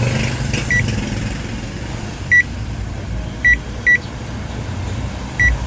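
Whirlpool automatic washing machine's control panel beeping: five short beeps at one pitch, two close together in the middle, over a steady low hum. This is the newly replaced play button registering presses as the machine starts.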